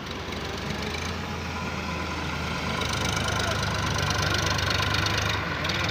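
Diesel engine of heavy machinery running and working harder, growing steadily louder from about a second in, with a higher-pitched whine joining from about three seconds in.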